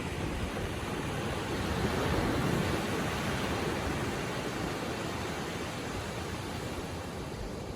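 Gentle ocean waves washing on the shore: a steady surf hiss that swells about two seconds in and then eases off.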